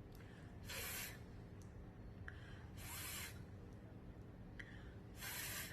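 A woman saying the voiceless 'th' phonics sound, a soft breathy hiss held for about half a second, three times about two seconds apart, over a faint steady hum.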